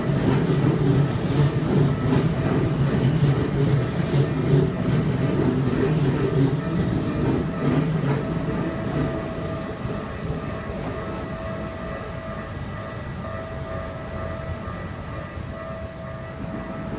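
Electric commuter train rolling past at a level crossing, a heavy rumble with wheels clacking over the rail joints. The rumble dies away about eight seconds in as the train clears.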